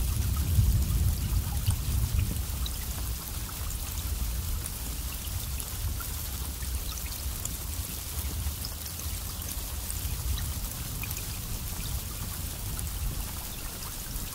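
Steady rain falling, with scattered drops ticking sharply. A low rumble of thunder dies down over the first few seconds.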